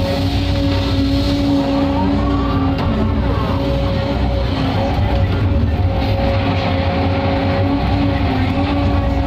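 Large excavator's diesel engine and hydraulics running steadily: a low drone with a steady whine on top and a few faint wavering tones that rise and fall.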